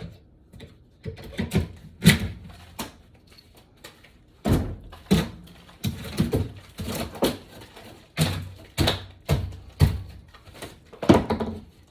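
Irregular series of heavy thumps and knocks from tearing out a wooden floor with a hammer and flat pry bar.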